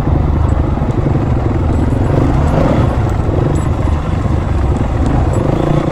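Dirt bike engine running steadily as a low, continuous rumble.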